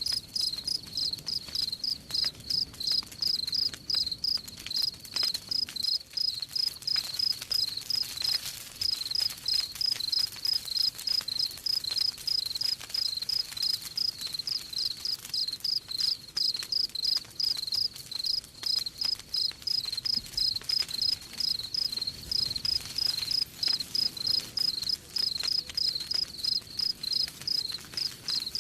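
Crickets chirping in a steady, even rhythm of about three high chirps a second, over faint scattered campfire crackles.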